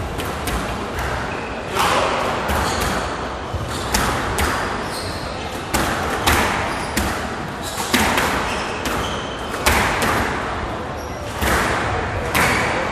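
Squash rally: the ball cracking off racquets and the court walls in an irregular run of sharp hits, about one to two a second, each echoing briefly in the hall.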